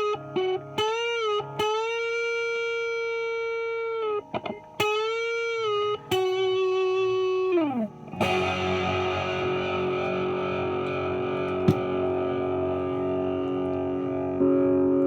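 Epiphone 1959 Les Paul Standard electric guitar on both humbuckers (middle pickup position), played through an amp. For about eight seconds it plays sustained single notes with wide vibrato and string bends, ending in a downward bend. Then come ringing chords, with a new chord struck near the end.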